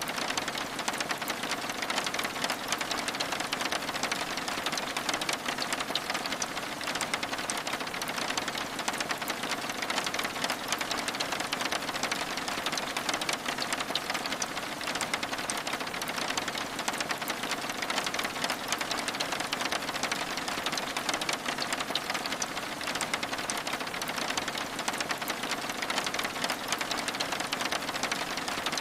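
Steady rain on window glass: a dense, even patter of many small drops.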